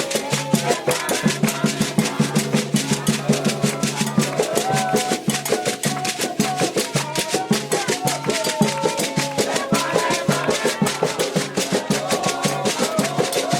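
Candomblé ritual music: hand drums played in a fast, steady rhythm with a rattle, under voices singing a chant in a bending melody.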